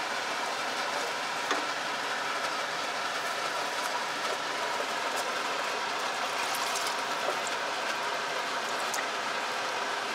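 Curry spice paste frying in a pot with a steady sizzle while a wooden spoon stirs it. Water is poured in about six seconds in, with a few sharper crackles as it hits the hot paste.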